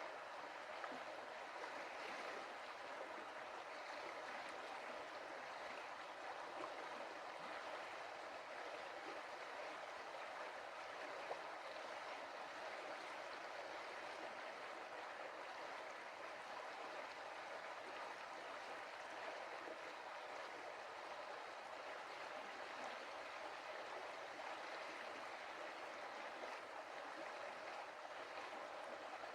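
Stream water running and splashing over stones, a steady rushing with light gurgling.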